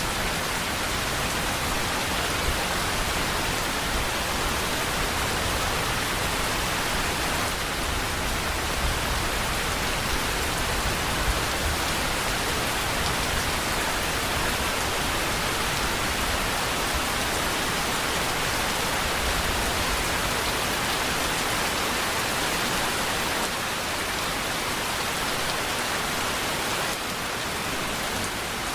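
Steady, dense rainfall: an even hiss of many drops with a faint low rumble underneath.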